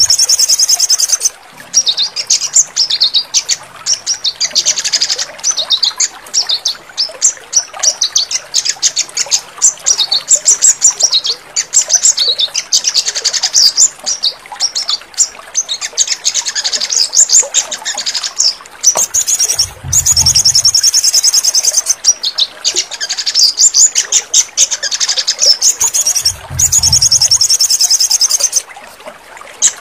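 Sogon birds singing: dense, rapid high-pitched trills and chirps with only short breaks, played as a therapy recording to set silent caged sogon birds singing again. Twice, about two-thirds of the way in and again near the end, a short low hum lies under the song.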